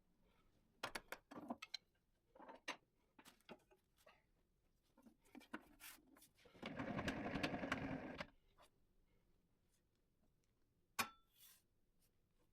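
Faint scattered clicks and knocks of wood being handled, then a short stretch, about two seconds, of a small power saw buzzing through an oak board about halfway in.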